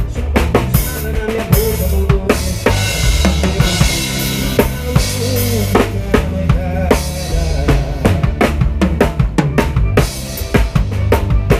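Live band music with the drum kit up front: a steady beat of kick drum and snare hits over bass, with a wavering melody line above.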